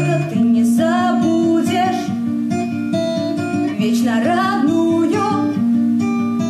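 Acoustic guitar playing a steady plucked accompaniment under a woman's singing voice, held notes with a wavering pitch coming in at the start and again about four seconds in.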